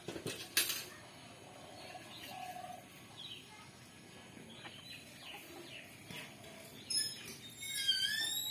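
Domestic chickens calling. A sharp knock comes just after the start, then a few faint low calls, and in the last second a run of high, sliding peeps.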